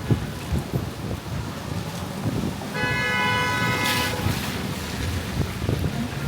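A car horn honks once for about a second and a half, starting a little under three seconds in, over a steady low rumble of city traffic and wind buffeting the microphone.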